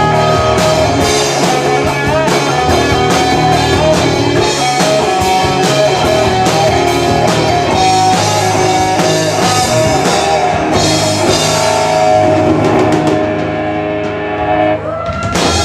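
Live rock band playing: electric guitar over a steady drum-kit beat, the song thinning out about a second before the end.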